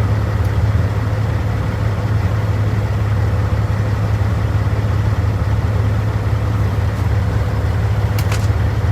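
Caterpillar C15 inline-six diesel of a Peterbilt 379 idling steadily as a low, even hum, with a couple of faint clicks about eight seconds in.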